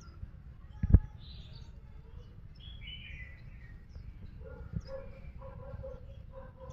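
Short, falling bird chirps, with one sharp knock about a second in. A low note starts repeating from about halfway through.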